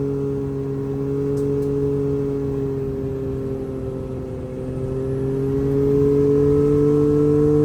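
Can-Am Maverick X3 Turbo RR's turbocharged three-cylinder engine, fitted with an RPM slip-on dump-valve exhaust, running at a steady speed. Its pitch and loudness ease off slightly around the middle and climb again near the end.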